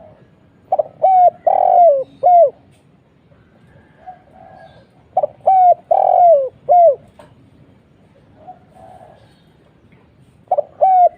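Spotted dove cooing: a phrase of four coos, each dropping in pitch, the third the longest. The phrase repeats about every four and a half seconds, twice in full, with a third starting near the end. Fainter single coos come in between.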